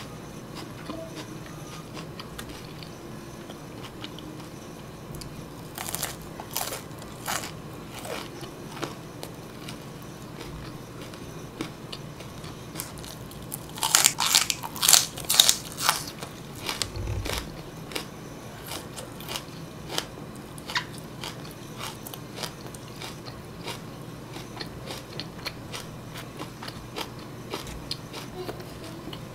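Close-up chewing with crisp crunching bites. About halfway through comes a run of loud, crisp crunches as a stalk of raw green onion is bitten and chewed.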